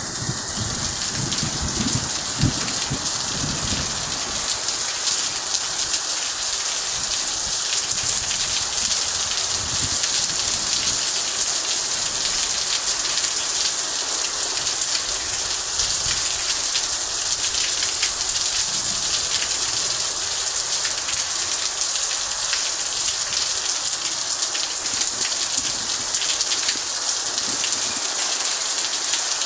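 Heavy rain pouring down steadily, a dense even hiss of falling drops, with a few low thuds in the first few seconds.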